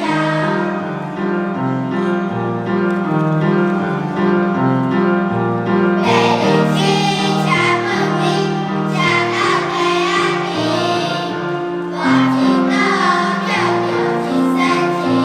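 A children's choir singing a song with instrumental accompaniment under the voices.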